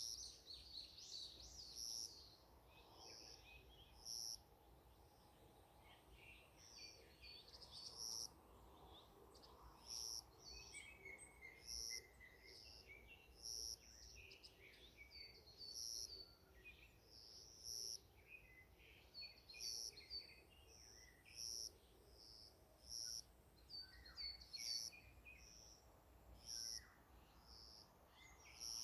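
Faint chorus of several songbirds: a short high call repeats about every two seconds over other chirps and twittering trills.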